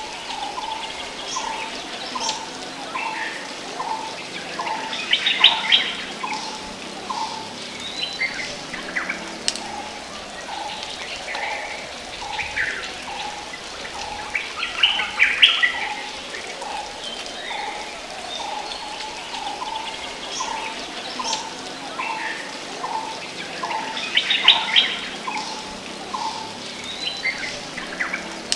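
Wild birds calling: a steady series of short, low repeated notes at about two a second, with a louder burst of high chattering calls about every ten seconds.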